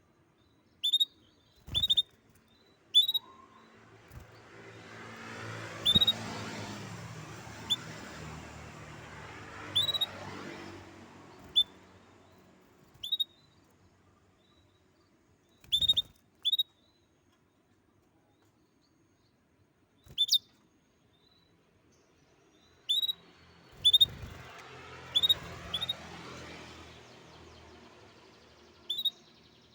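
Pet canary giving short, sharp single chirps, one to three at a time with pauses of several seconds between. Twice a broad rushing noise swells up and fades away over several seconds behind the calls.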